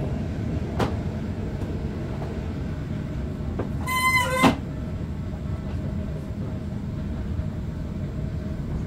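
Inside a passenger carriage of a moving PKP Intercity train: a steady rumble of the wheels on the track with a faint steady hum. About four seconds in, a brief high-pitched squeal ends in a sharp click.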